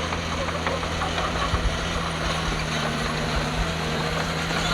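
Heavy earthmoving machine's diesel engine running steadily, with a few low knocks and thumps.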